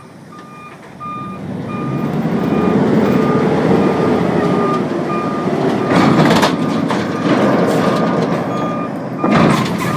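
Vehicle reverse alarm beeping steadily while its engine runs louder from about a second in, the engine pitch rising and falling slowly. Two loud noisy bursts come about six and nine and a half seconds in.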